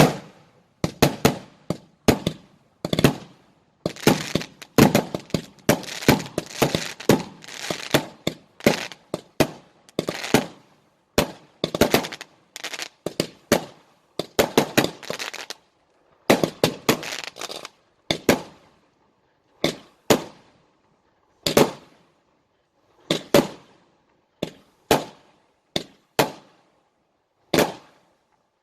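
Fireworks going off: a fast, dense run of sharp bangs and crackles that thins out about halfway through to single bangs roughly a second or so apart.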